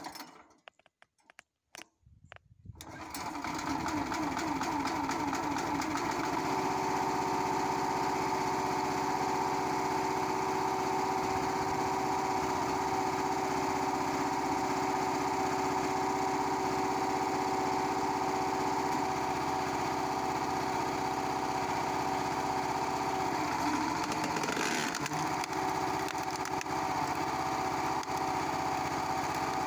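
Honda GX240 single-cylinder four-stroke engine of a 30-ton log splitter starting up about two seconds in, then running steadily. There is a brief change in its sound about three-quarters of the way through.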